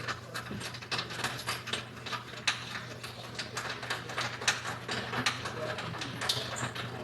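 Irregular clicks and light metallic knocks of hand tools working a seat-mounting screw loose inside a car, over a steady low hum.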